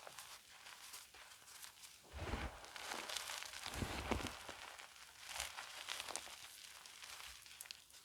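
Gym chalk being crushed and crumbled: a run of irregular crunches and crackles, loudest a few seconds in.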